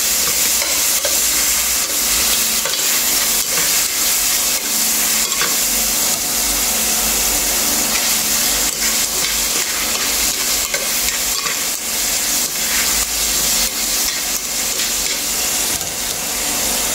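Chicken pieces frying in butter in a stainless steel pan, sizzling steadily, with frequent clicks and scrapes as a utensil stirs and turns them against the pan.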